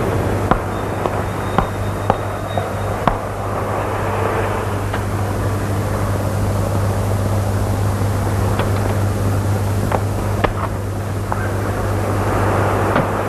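A car driving: steady engine and road noise over a constant low hum, with scattered sharp clicks.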